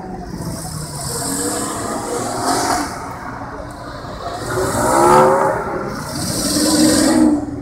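Porsche cars, a Boxster roadster and a Cayenne SUV among them, driving past one after another with their engines revving; three swells as each car passes, the loudest about five seconds in with a rising rev.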